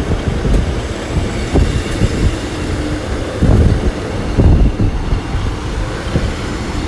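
Two coupled Class 150 Sprinter diesel multiple units running in along the platform to stop, a loud low rumble of wheels on rail and underfloor diesel engines with uneven thumps.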